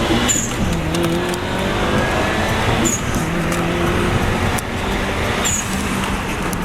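Subaru Legacy Blitzen's turbocharged flat-four engine heard from inside the cabin, pulling hard through the gears: its note climbs and falls back at each change, three times, with a brief high chirp near each change and a turbo whistle over the engine.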